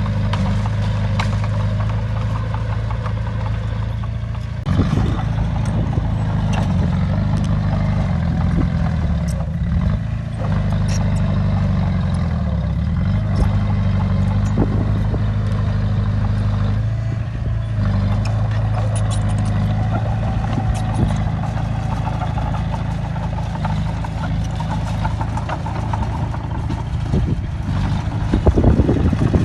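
Heavy diesel engine of a bulldozer working dirt: a steady deep drone whose pitch shifts several times as the load and throttle change. Short knocks and clanks are scattered through it, with a louder cluster near the end.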